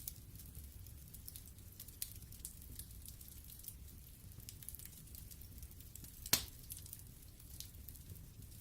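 Wood fire in a fireplace burning with a low rumble and frequent small crackles, and one louder pop a little after six seconds in.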